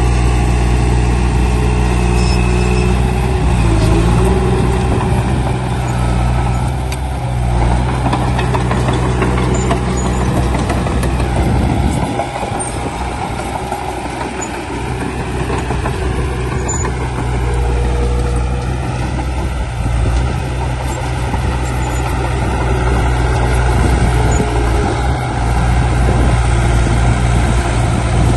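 Heavy diesel earthmoving machinery running steadily with a deep engine hum, easing off slightly partway through and then building again toward the end.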